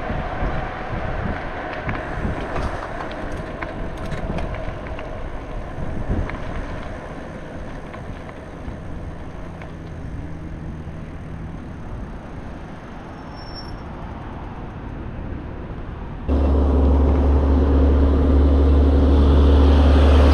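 Wind noise on a cyclist's camera microphone with road traffic noise. About sixteen seconds in, a loud steady low drone with a hum starts abruptly.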